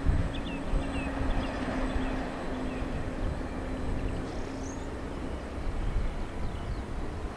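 A train running with a low rumble and a steady hum that stops about five seconds in. Birds chirp over it.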